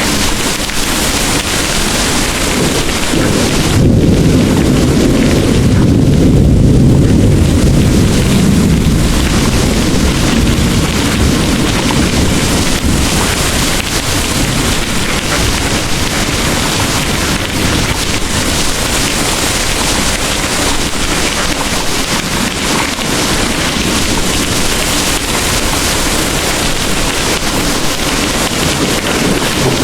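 Heavy rain pouring steadily, with a low rolling rumble of distant thunder swelling about four seconds in and fading out a few seconds later.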